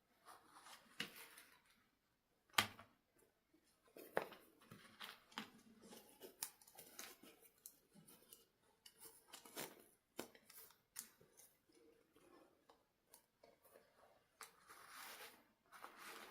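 Hands handling plastic dolls and their packaging: a quiet, irregular run of small clicks and rustles, with one sharper click about two and a half seconds in and a longer rustle near the end.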